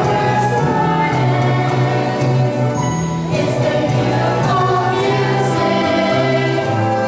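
Choral singing with instrumental accompaniment: a choir holding sustained notes over a steady bass line.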